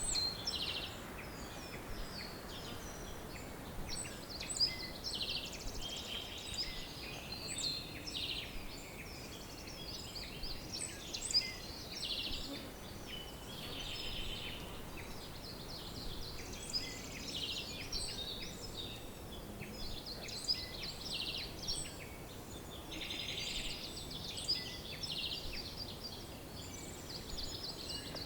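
Several songbirds chirping and trilling at once in a dense, continuous chorus of short high calls, over a faint steady background hiss.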